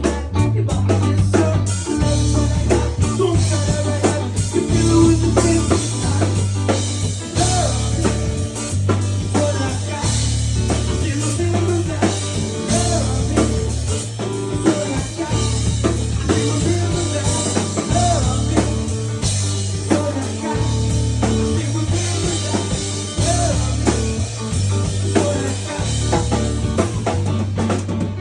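Live ska-rock band playing, with a steady bass line, drum kit and some singing.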